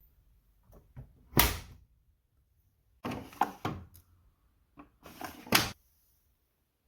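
A series of separate knocks and thuds with quiet gaps between them, the loudest about a second and a half in and again near five and a half seconds.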